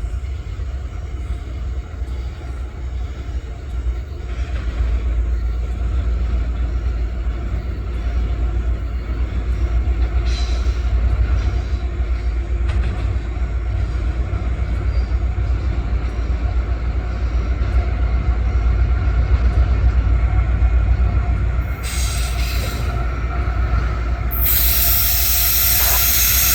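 Long freight train rolling past at speed: a deep, steady rumble that slowly grows louder, with thin wheel squeal over it. Near the end a bright rushing hiss of steel wheels on rail comes in, first briefly, then for good.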